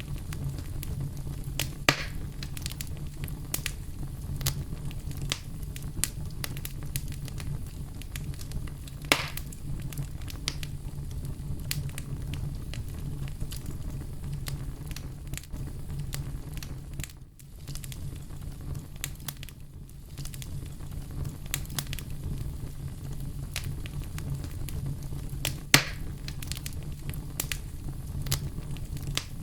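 Campfire burning: a steady low rumble of flame with scattered crackles throughout. Sharper pops come about 2 and 9 seconds in, and the loudest pop comes near the end.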